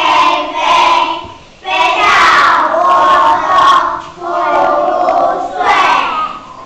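A class of young children's voices in unison, in loud phrases with short breaks between them.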